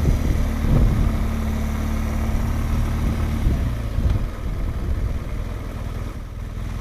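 Motorcycle engine running at low speed, a steady hum that drops away and gets quieter about halfway through.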